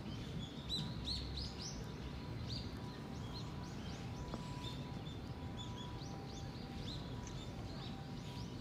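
Small birds chirping: many short high chirps scattered throughout, over a steady low background rumble.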